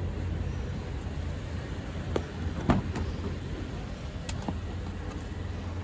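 Toyota Innova Crysta's 2TR-FE four-cylinder petrol engine running steadily with a low hum, with a few light clicks about two to four seconds in.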